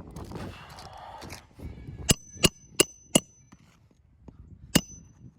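Nails being driven into roof shingles: four quick, sharp, ringing strikes about three a second, then one more about a second and a half later. A brief scraping rustle comes first.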